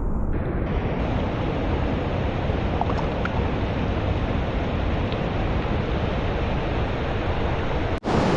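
Small mountain stream running: a steady rush of flowing water, cutting out for an instant near the end.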